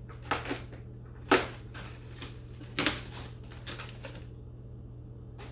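Several short rustles and knocks of packaging being handled while parts are lifted out of a box, the loudest about a second in, over a steady low hum.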